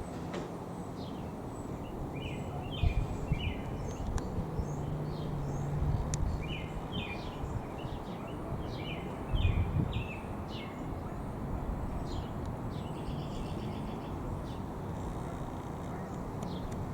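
Small birds chirping in short repeated phrases over a steady low background rumble, with a few brief low gusts of noise.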